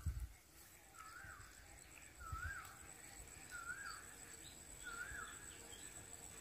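A distant bird calling four times, a short wavering note repeated about every second and a quarter, faint, over a steady thin high-pitched tone, with a soft low bump about two seconds in.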